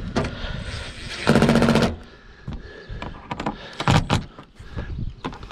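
Power screwdriver or impact driver driving a screw into the Coleman Mach 3 rooftop air conditioner's cover, a rapid rattling burst of about half a second, followed by a few short knocks as the cover is handled.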